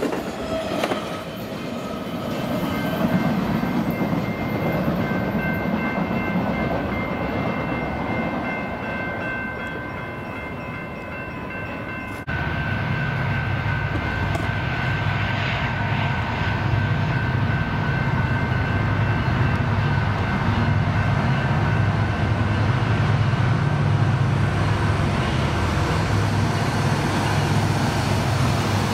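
An intermodal freight train rolling past on the rails, a broad rumble with several steady high tones over it. About twelve seconds in, the sound cuts to BNSF diesel locomotives working hard near the top of a grade: a deep, pulsing engine rumble under load with a steady whine above it.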